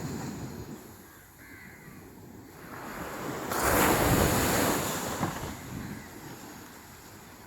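Sea waves on a beach. One wave builds, breaks with a surge about three and a half seconds in, stays loudest for a second or so, then washes back and fades.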